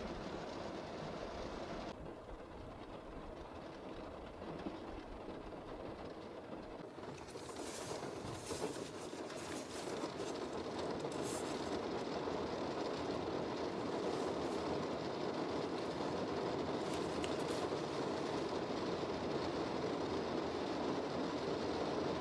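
Heavy typhoon rain falling steadily as a dense rushing noise, growing louder about seven seconds in and holding there.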